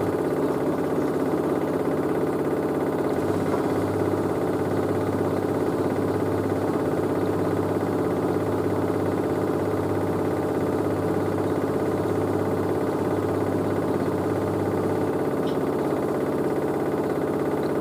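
LG DirectDrive washer dryer running with a steady machine hum, with a lower hum that comes in about three seconds in and drops out shortly before the end.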